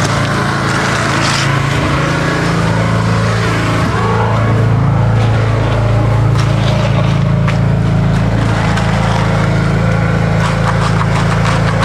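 A machine's engine running steadily on the job, getting louder and deeper-toned a few seconds in, with faint knocks and scrapes over it.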